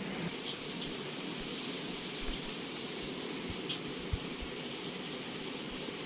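Heavy rain falling steadily, with scattered sharp ticks of single drops striking close by.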